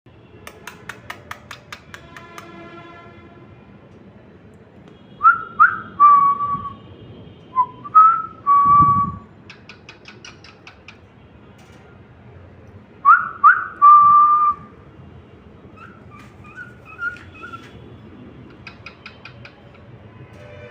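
Cockatiel whistling in three short phrases of notes that slide up and settle on a held tone, with runs of rapid clicks in between.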